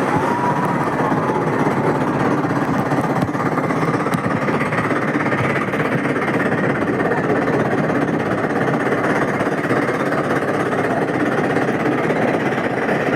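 Amusement-park water ride running: a steady, loud rushing noise with no breaks.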